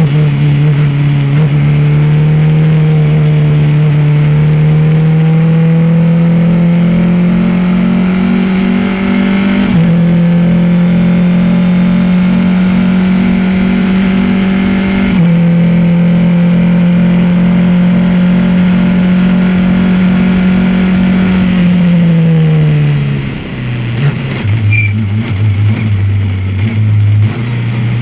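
Race car engine pulling hard on track, its pitch climbing slowly, with two brief breaks for upshifts about ten and fifteen seconds in. Past twenty seconds the revs fall away as the car slows for a corner, run low and uneven for a few seconds, then build again near the end.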